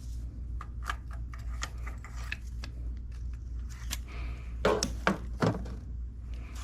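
Hand tools clicking and clinking against metal while spark plugs are being changed, in an irregular run of light taps, with a few louder knocks about five seconds in. A steady low hum runs underneath.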